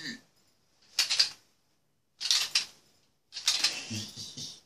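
Four short bursts of clicking, rattling noise with silence between them.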